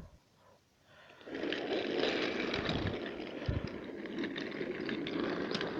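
Toy train running along its track: a steady rattling rumble with small clicks that starts about a second in.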